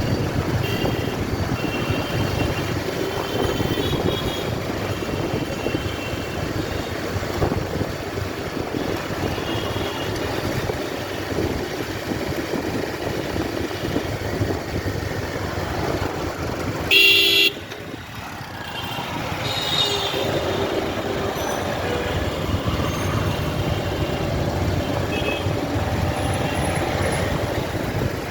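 Steady road traffic and engine noise, with short vehicle horn toots and one loud horn blast lasting about half a second two-thirds of the way through.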